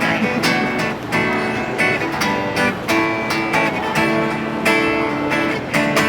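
Acoustic guitar strumming chords at a steady pace of about two strokes a second.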